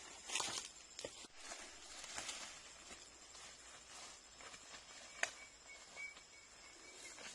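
Quiet forest ambience: soft rustling and footsteps in leaf litter with a few light clicks, a sharp snap just past five seconds, then a faint run of high chirps. A faint steady high whine runs underneath.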